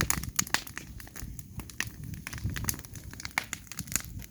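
Wood bonfire burning, crackling with many sharp, irregular pops over a low rumble.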